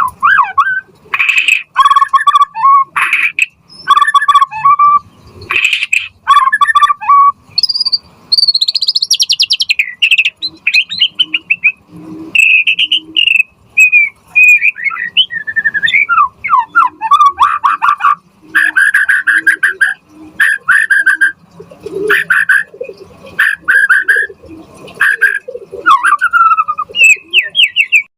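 White-rumped shama singing a loud, fast, varied song of whistles, trills and chirps in quick phrases with brief pauses between them.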